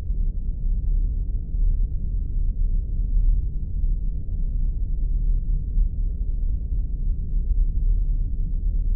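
Spaceship sound effect: a steady, deep, unbroken rumble, with faint crackles flickering above it.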